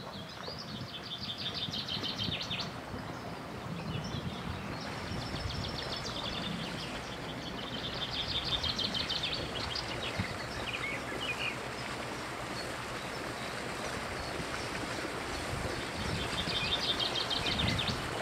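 Songbird singing in three bouts of rapid, trilled phrases, over steady outdoor background noise with a faint low rumble.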